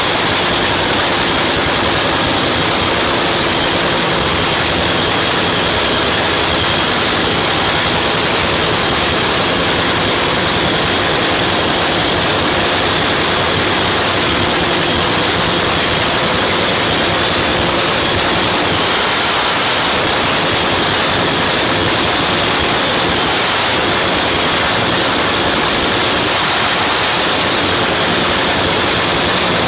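Nitro funny car's supercharged nitromethane-burning V8 running at a steady speed during its warm-up. It is loud enough to come through as a dense, even noise, with no revving or change in pitch.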